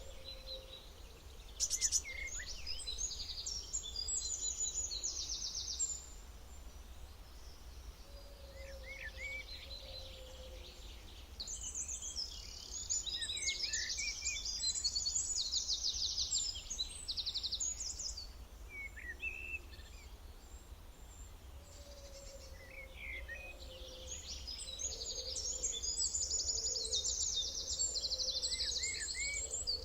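Several songbirds singing, in three bouts of fast, high trills with short chirps between them, over a steady low background rumble.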